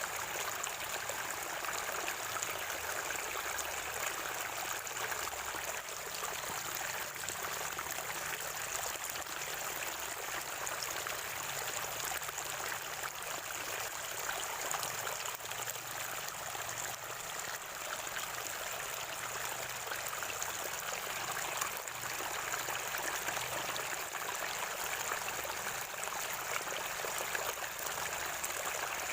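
Water at a natural spring gurgling and trickling steadily, a continuous splashing rush with no breaks.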